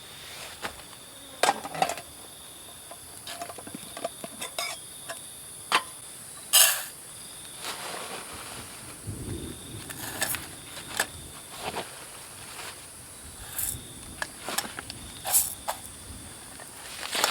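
Steady high-pitched chirring of forest insects such as crickets, with a second, on-and-off trill a little lower. Scattered sharp clicks and knocks of handling or movement sound over it, the loudest one about six and a half seconds in.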